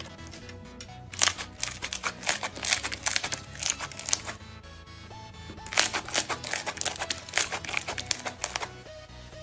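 Slime being squeezed and worked by hand, giving rapid irregular crackling and popping clicks in two runs of about three seconds each, over background music.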